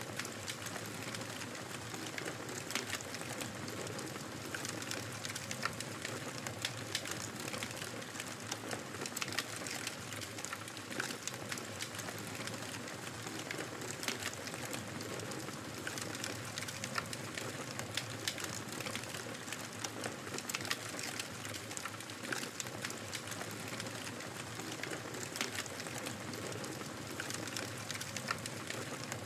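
Fireplace fire crackling: a steady hiss of burning wood with frequent sharp pops and snaps.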